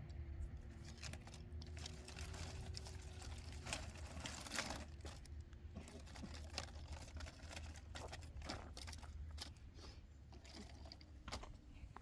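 Faint rustling with many scattered small clicks and knocks over a low steady rumble, which eases off near the end.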